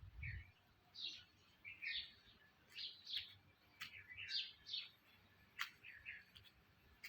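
Birds chirping: many short, separate calls in quick succession, faint, with a couple of sharp clicks among them.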